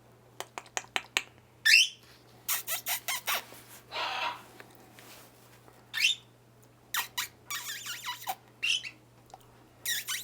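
Pet parrots squawking, with clicks, short whistled calls and raspy screeches in quick bursts, the loudest a rising squawk about two seconds in; the birds are startled.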